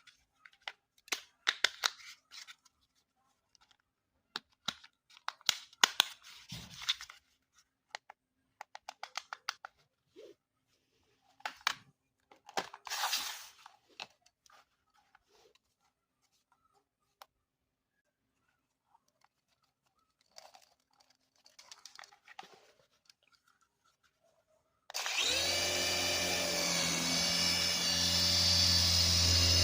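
Packaging being handled and opened, with scattered clicks, crinkles and tearing noises. Near the end a battery-powered toy helicopter's small electric motor switches on suddenly and runs steadily with a buzzing whine.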